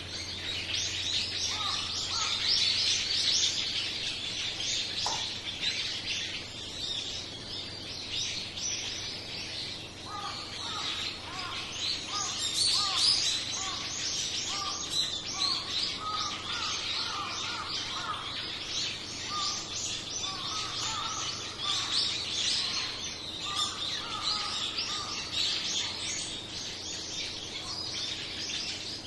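A flock of small songbirds chirping all at once, many short high chirps overlapping throughout. From about ten seconds in, a lower short call repeats over and over among them.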